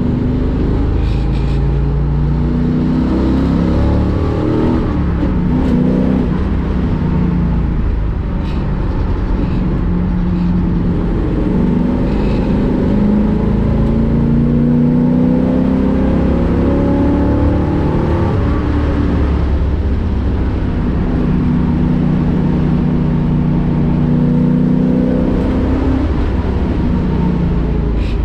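1965 Ford Mustang race car's V8 engine heard on board at speed, its revs climbing through the gears and dropping again over and over as it accelerates and lifts.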